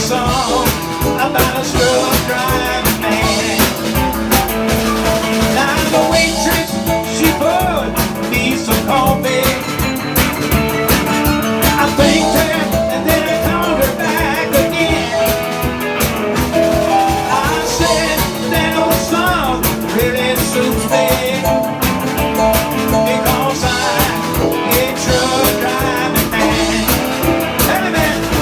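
A live band playing an upbeat country-rock song, with electric guitar over a steady drum beat.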